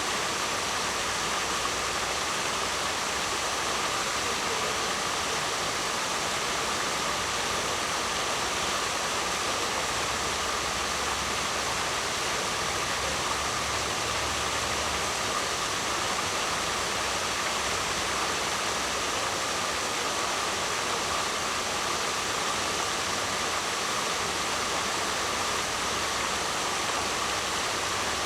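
Waterfall: water falling and rushing in a steady, unbroken roar of even noise.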